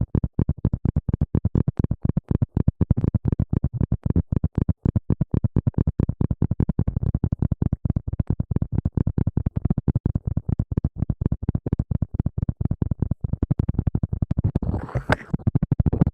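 Rapid, rhythmic scratching close to the microphone, about seven strokes a second, with one brighter, sharper stroke near the end.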